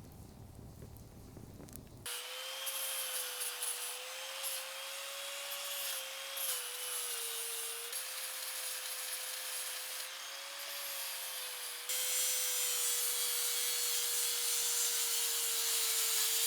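A small motorised tool running steadily with a high hiss, its pitch wavering slightly and dipping briefly about halfway through; it starts suddenly about two seconds in and grows louder near the end.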